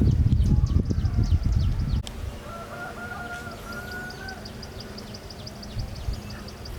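A low rumbling and knocking for the first two seconds, then a chicken calls, one pitched call in two parts lasting about two seconds. Behind it a fast, even high-pitched chirping repeats several times a second.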